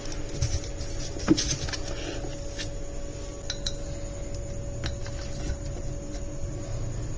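A few light clinks and taps of dishes and utensils, the sharpest about a second in, over a steady hum.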